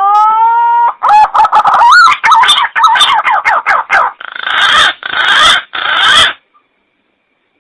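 Green pigeon (punai) call played as a hunting lure: a long whistle that rises and then holds, a quick run of warbling whistled notes, then three harsh, rasping notes, stopping a little after six seconds in.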